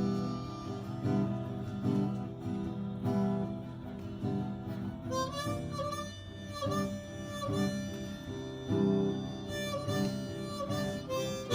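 Harmonica and acoustic guitar music: the guitar plays chords and the harmonica comes in about halfway with bending, wavering notes.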